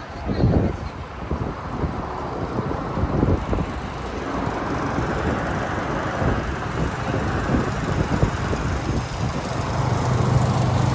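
City street traffic noise, with wind buffeting the microphone in gusts, strongest in the first few seconds. A steady low engine hum comes in near the end.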